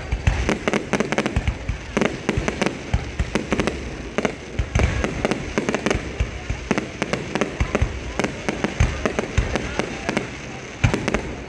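Fireworks display: a dense run of sharp bangs and crackling, closely spaced and irregular, with no let-up.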